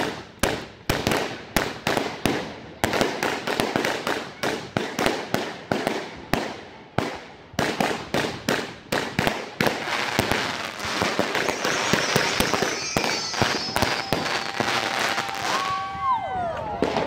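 Fireworks going off in quick succession, sharp bangs about two or three a second, thickening into a dense crackle about ten seconds in. Near the end a few whistling tones bend in pitch over the crackle.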